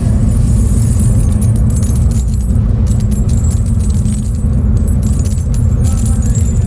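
A mass of small brass pieces, such as spent bullet casings, jangling and clinking continuously over a steady low machine rumble.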